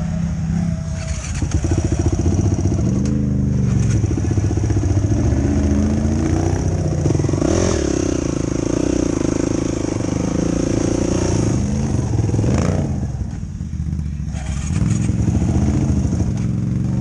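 Yamaha YFZ450 quad's single-cylinder four-stroke engine revving up and down while being ridden, holding steady at high revs for a few seconds in the middle.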